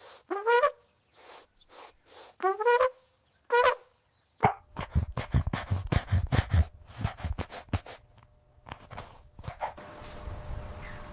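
Three short calls, each rising in pitch, then a quick run of hooves clopping on hard ground, in a recording of horse sounds.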